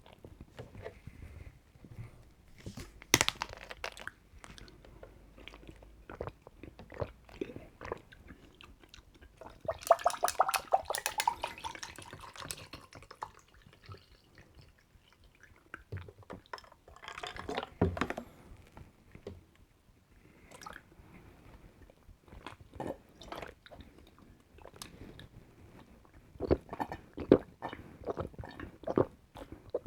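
Close-miked drinking of a lightly carbonated milk soda: scattered clicks and handling of the container, a pour whose pitch rises about ten seconds in, then sips and swallows with a quick run of mouth clicks near the end.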